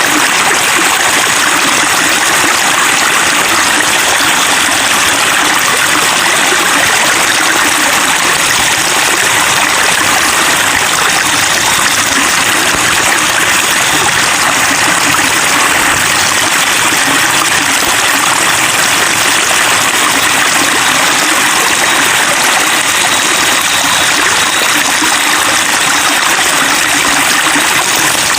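Water flowing and splashing steadily, a continuous babbling stream with no pauses or changes.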